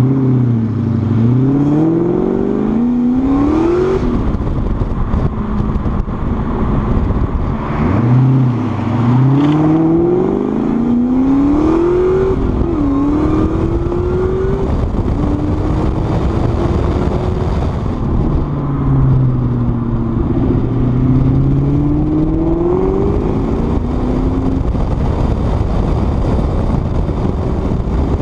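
Ford Mustang SVT Cobra's V8 accelerating through the gears: the engine note climbs and then drops at each upshift, several times over, before settling into steadier cruising with gentler rises and falls.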